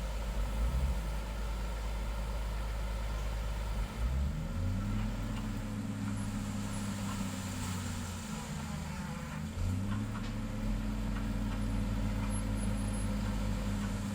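Diesel engine of heavy road-building equipment running. It revs up about four seconds in, eases back down a little after eight seconds, and revs up again near ten seconds.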